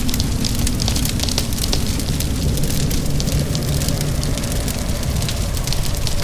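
Wood fire crackling steadily in a fireplace, with many quick sharp pops and snaps over a constant low rumble.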